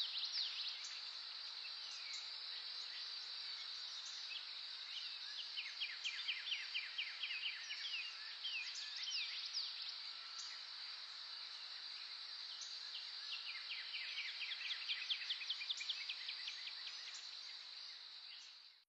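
Wild birds singing over a steady high-pitched insect drone. Two bouts of rapid trills stand out, one a few seconds in and one near the end, and then everything fades out.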